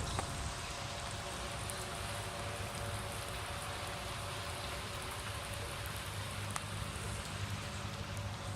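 Steady rain falling, an even hiss without breaks, with a faint low hum underneath.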